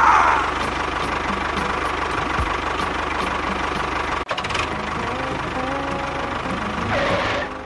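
An engine running steadily with a fast, even pulse, broken off sharply for a moment a little past halfway.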